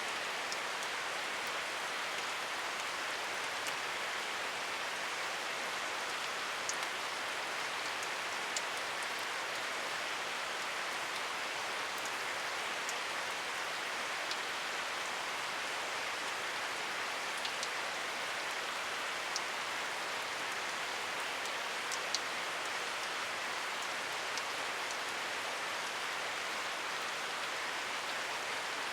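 Steady rain falling, an even hiss of rainfall with scattered sharp ticks of individual drops striking close by.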